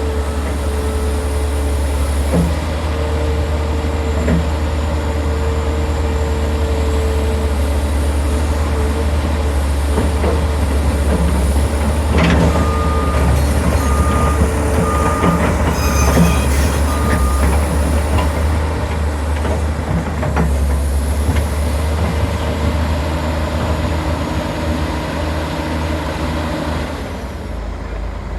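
Kobelco SK480LC excavator's diesel engine running with a steady low rumble and a high whine that rises and falls. About halfway through, a warning alarm beeps five times, a little under a second apart.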